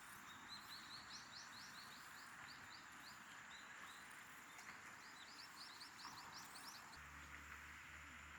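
Wild songbird singing two fast phrases of rapid, repeated high chirping notes, over a faint steady rush of flowing stream water.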